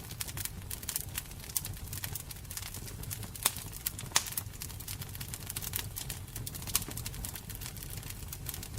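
Fire crackling: irregular sharp pops and snaps over a steady low rumble, with two louder pops a little before the middle.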